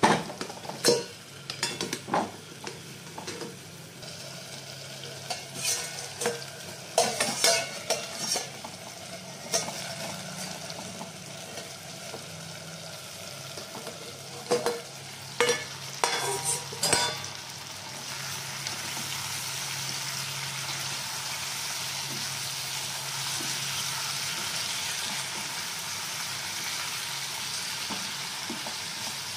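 Metal clinks and knocks from the steel plate lid and pan, then, past the halfway point, a steady sizzle of sliced kakdi (long cucumber) frying in the pan as it is stirred with a spatula.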